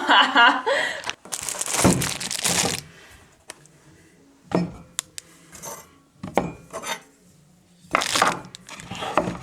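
Clinks, clicks and rustling of small hard objects being handled, in several separate bursts, the longest about a second in.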